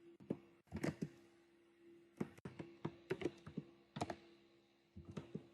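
Typing on a computer keyboard, clicks of keystrokes coming in short irregular bursts.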